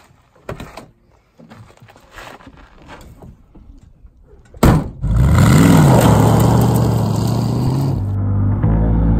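Footsteps crunching on gravel, then a sharp thud about four and a half seconds in, and a classic Ford Mustang's engine bursting into loud running, revving up and back down once before holding steady as the car pulls away on dirt.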